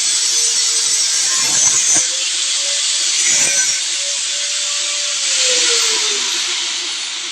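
A handheld electric power tool running under load with a steady hissing, grinding noise. Its motor tone wavers, then winds down in pitch a little over five seconds in.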